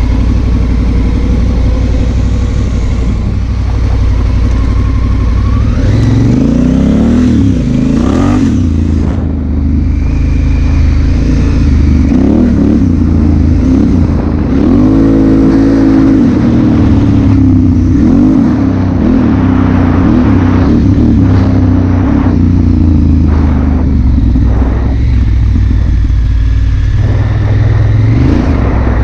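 Honda Africa Twin CRF1000L's parallel-twin engine under way, its note rising and falling repeatedly as the bike accelerates and eases off.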